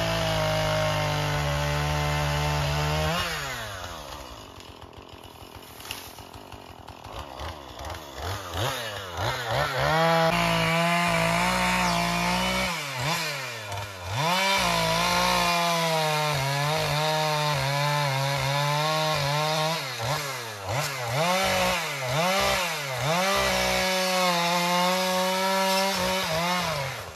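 Chainsaw running at full throttle, dropping to idle about three seconds in, then revved up and down again and again and held at high speed for long stretches, as when cutting brush and trees.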